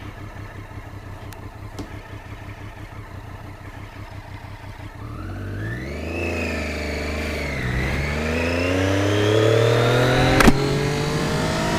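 Triumph Daytona 675R's inline three-cylinder engine ticking over low, then pulling away from about five seconds in: the revs rise, drop at a gear change, and rise steadily again. A single sharp click about ten and a half seconds in.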